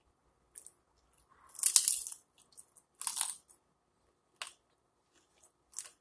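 Close-miked crunching and chewing of a fried chicken flauta. There are two loud crunches, about two and three seconds in, then fainter mouth clicks.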